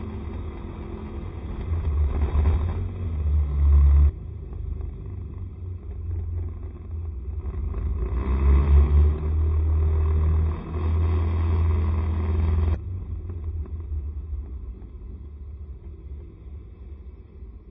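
A ride on a Honda SCR110 scooter: a heavy low rumble of engine, road and wind noise. It swells twice and cuts off abruptly each time, then fades.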